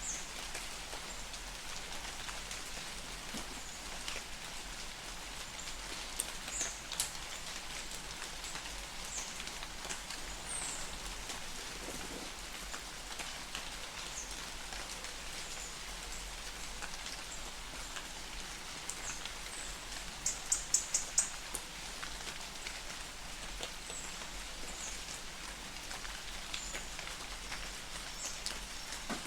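Light rain falling steadily in a forest, the patter of drops on leaves and ground. A bird gives scattered short high chirps throughout, with a brief rapid trill about two-thirds of the way through.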